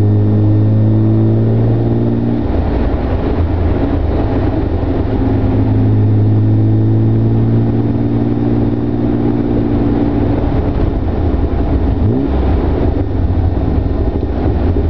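Austin-Healey sports car engine running on the road, heard from on board, its note holding steady for stretches and rising again about twelve seconds in.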